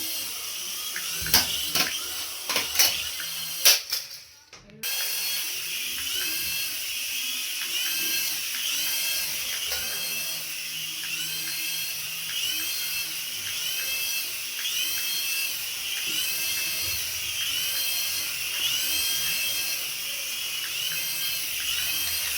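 A small battery-powered toy motor whirring steadily, with a short chirp repeating about twice a second. There are several sharp clicks in the first few seconds and a brief drop-out before the whirring resumes.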